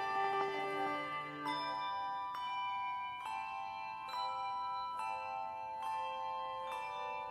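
Handbell choir playing a slow piece: a new chord of bells struck about once a second, each chord ringing on under the next.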